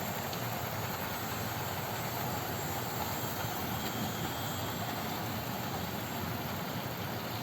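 Several model trains running at once on a layout: a steady whirr of small motors and wheels running on track.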